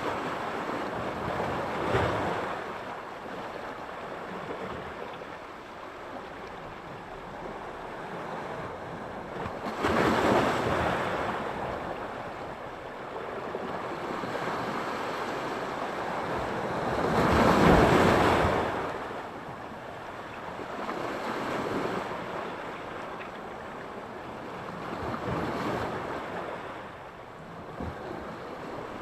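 Sea surf washing onto the shore, each wave swelling and then fading. A surge comes about two seconds in, a stronger one about ten seconds in, and the loudest a little past halfway, with smaller washes after it.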